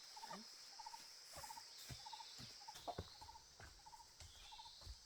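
A chicken calling softly in short three-pulse notes, evenly repeated about twice a second, over a steady high insect drone, with a few soft knocks.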